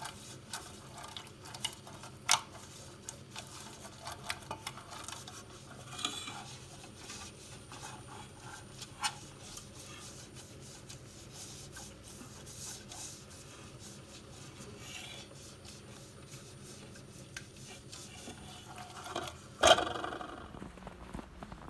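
Small household objects being handled: scattered light clicks and rubbing, with one louder knock near the end.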